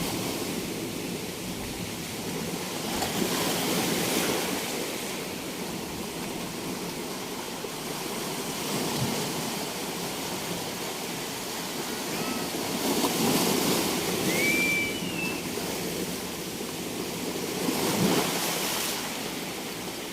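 Sea surf breaking and washing on a beach. The steady rush swells louder several times as waves come in.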